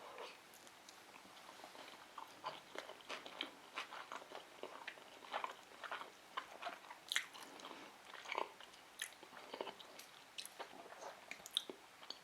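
Close-miked chewing of a vegetable sushi roll: a run of short, wet mouth clicks and smacks.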